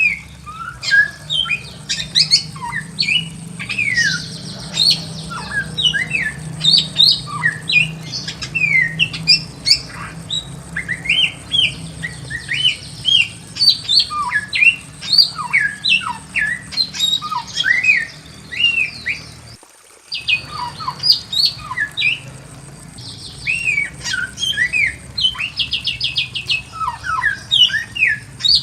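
Bare-throated whistler singing continuously: a fast, varied stream of short whistled notes sliding up and down, broken now and then by quick rattling trills. The song cuts out for a moment about two-thirds of the way through.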